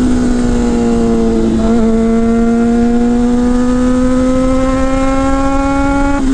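Motorcycle engine running under way, its note slowly rising as the revs climb, with a brief hitch in the note about two seconds in and again at the end, over steady wind noise.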